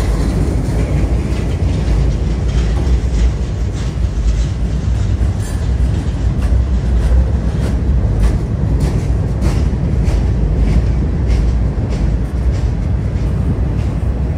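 Freight cars rolling past on a steel railroad bridge: a steady low rumble with many sharp clicks from the wheels over the rail joints.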